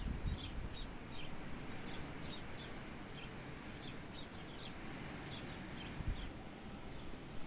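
A small bird chirping over and over, short high chirps a few times a second, stopping about six seconds in, over a steady low rumble with one soft thump near the end.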